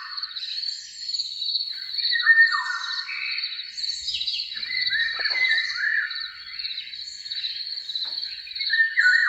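Outdoor chorus of songbirds singing short, repeated falling phrases over a steady, high-pitched insect-like trill.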